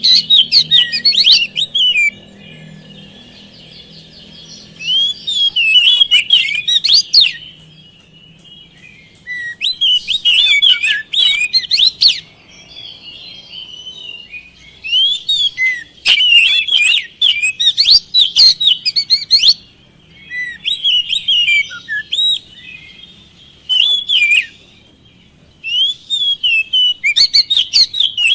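Oriental magpie-robin singing loud phrases of rapid, varied whistles and chirps, about seven bursts a few seconds apart with softer twittering between, the full song used as a lure to set a silent captive bird singing.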